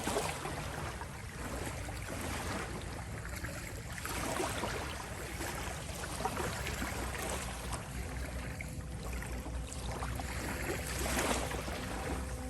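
Gentle ocean waves washing and lapping, each wash swelling and falling back every few seconds. A faint steady tone, the 528 Hz healing tone, comes in near the end.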